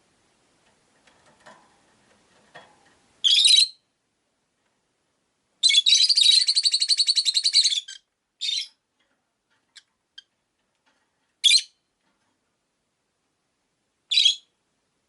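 Rosy-faced lovebirds calling: several short, sharp, high chirps spaced a few seconds apart, and one rapid chattering run of about two seconds near the middle.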